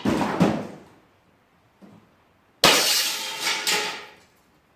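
Glass breaking and shattering: a crash right at the start with pieces clattering down, then a second, louder shatter about two and a half seconds in, with shards falling and fading for over a second.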